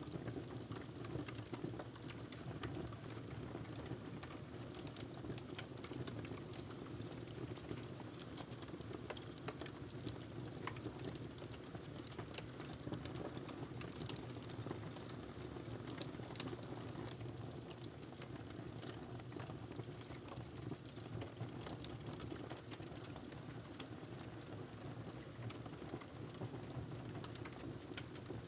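Wood fire crackling in a fireplace: many small irregular pops and snaps over a steady low rush.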